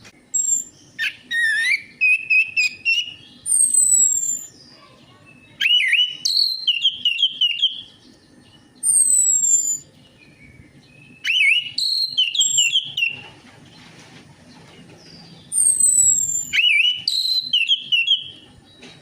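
Orange-headed thrush singing: repeated bright whistled phrases mixed with quick high falling slurs, each phrase lasting a second or two with short pauses between.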